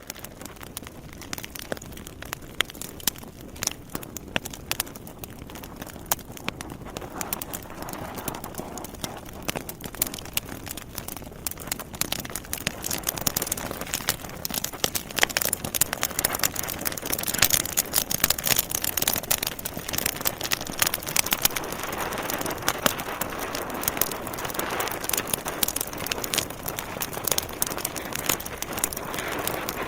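Wood fire burning in a fireplace: logs crackling and popping over a steady hiss of flames, the crackles coming thicker and louder from about halfway through.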